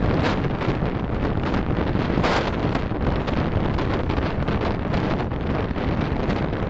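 Steady wind and road noise from a moving car, heard through a dashcam's microphone, with a brief louder swell about two seconds in.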